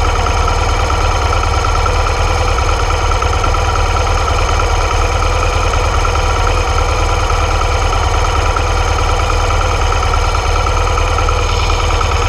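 BMW R 1200 GS boxer-twin engine idling steadily in neutral, heard close up from the bike itself.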